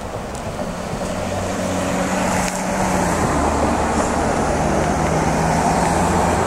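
Highway traffic: a motor vehicle's engine and tyres growing louder over the first few seconds as it approaches, then holding steady over a continuous rush of noise.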